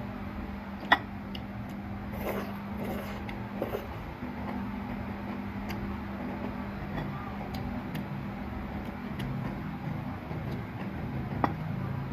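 Eating at a meal: a utensil clicks sharply against a bowl twice, about a second in and near the end, with a few softer clinks and mouth sounds between, over a steady low hum.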